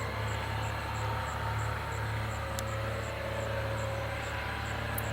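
Small homebuilt airplane's engine running steadily, a low hum heard over a hiss of background noise.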